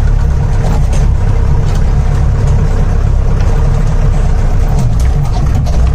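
Off-road 4x4 jeep's engine running steadily as the vehicle drives: a loud low rumble, with a few short knocks and rattles.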